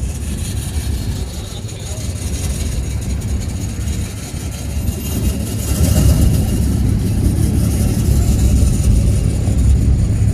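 Street truck engines running with a deep, steady rumble that grows louder about six seconds in.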